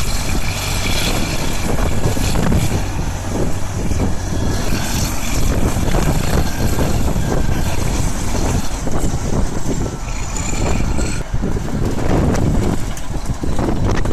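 Bulldozer diesel engine running steadily under load as the machine pushes forward through deep snow.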